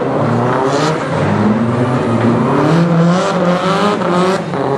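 A 760-horsepower show car's engine revving up and down several times in succession.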